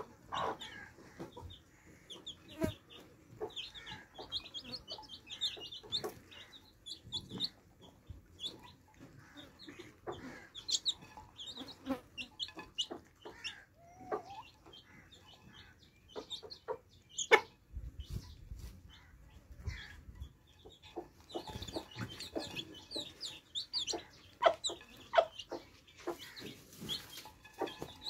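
Baby chicks peeping in many short, high chirps, mixed with a hen's lower clucks and scattered sharp taps. A brief low rumble comes about two-thirds of the way through.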